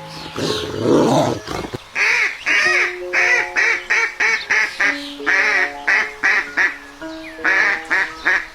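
Background music with held notes, overlaid about two seconds in by a rapid series of short, loud animal calls, roughly three a second.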